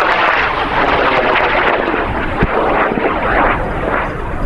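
High-power rocket motor burning as the rocket climbs away: a loud, steady rushing noise with a crackly edge. There is one sharp pop about two seconds in.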